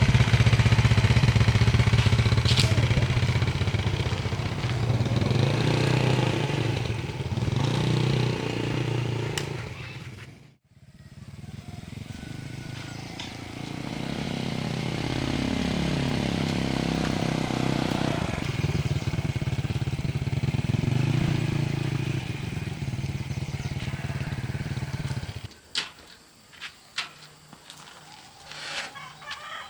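A small engine running steadily, its pitch falling and rising in the middle as it changes speed. It breaks off briefly about a third of the way through and stops near the end, leaving a few clicks.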